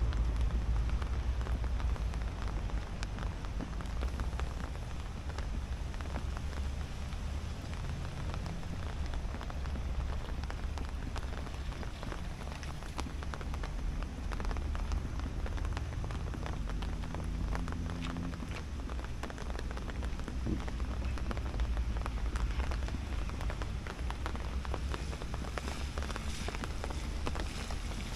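Steady heavy rain falling, a dense patter of drops, with a low rumble underneath.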